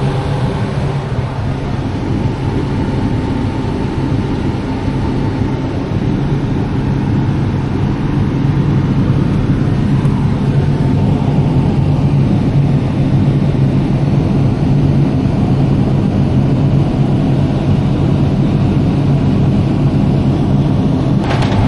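Farm tractor engine running steadily while it pulls a grain cart, a low drone with a steady hum, getting slightly louder about eight seconds in.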